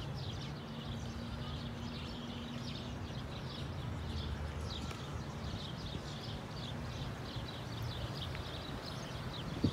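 Many small birds chirping in quick, overlapping calls from the garden trees, over a low steady background rumble.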